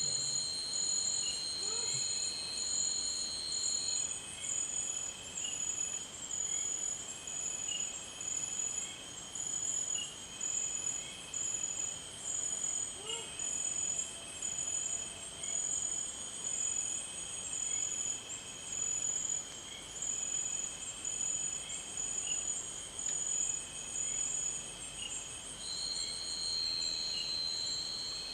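Tropical forest insect chorus: several shrill, steady, pulsing trills of crickets or katydids overlap. One high steady tone stops about four seconds in and comes back near the end.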